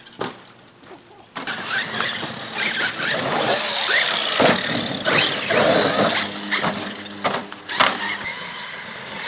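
Radio-controlled truck's electric motor whining up and down in pitch as it is driven over rough ground, with scattered knocks and clatter. It starts after a short quiet moment.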